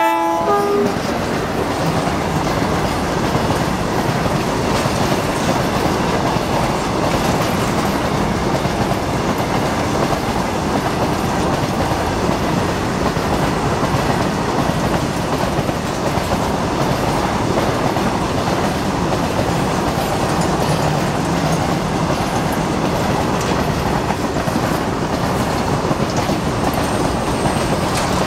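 A long freight train of BCNA covered wagons rolling steadily past close by, wheels clattering on the rails. The WDM-2A diesel locomotive's horn cuts off within the first second.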